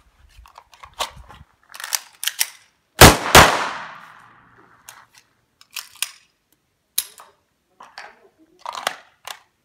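Kydex holster clicking and snapping as a Groza-021 pistol is worked in and out of it and the flip-up retention stop is swung. There is a run of sharp clicks; the loudest are two hard snaps a little under half a second apart about three seconds in, with a short ringing tail.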